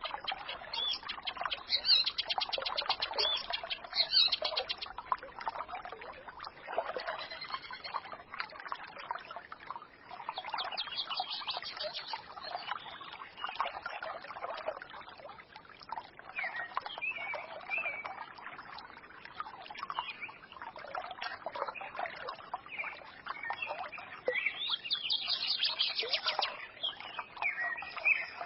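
A small forest stream babbling and trickling, with songbirds twittering over it and breaking into rapid high trills several times.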